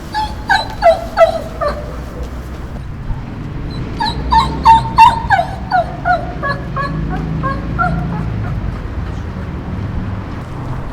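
Dog crying and whimpering in short, high whines that fall in pitch: a run of several cries at the start, then a louder run about four to six seconds in, over a low steady rumble.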